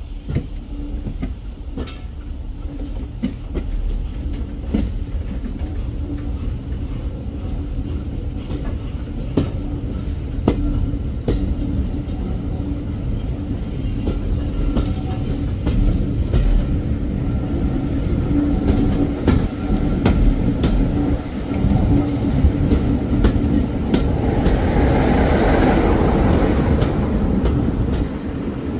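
Passenger train running slowly, heard from aboard a carriage: a steady low rumble with irregular sharp clicks of the wheels over rail joints. A louder rush of noise swells about twenty-five seconds in and eases off before the end.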